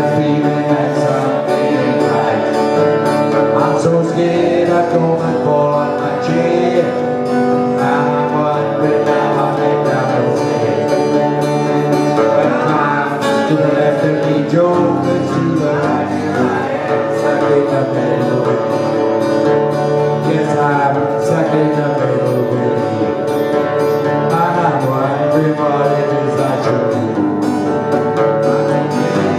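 Live acoustic music: strummed acoustic guitar with a sung melody over it.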